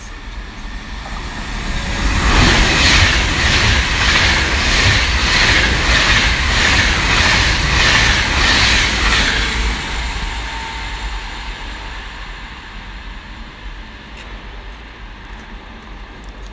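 Avanti West Coast express train running through the station at speed without stopping. Wheel and rail noise swells about two seconds in and carries a steady rhythmic clatter as the coaches pass, then dies away over the last several seconds as the train recedes.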